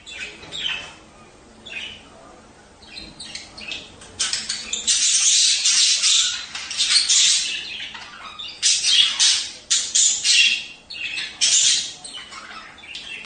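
Budgerigars chattering and squawking: a few scattered calls at first, then from about four seconds in a dense, busy warbling chatter of several birds, the kind of flock chatter played to budgie pairs to prompt breeding.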